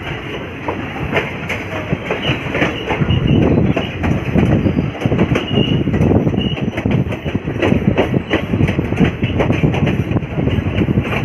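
Passenger train running through a station without stopping, heard from on board: a steady rumble of wheels on rail with a quick, irregular clatter of clicks over the rail joints.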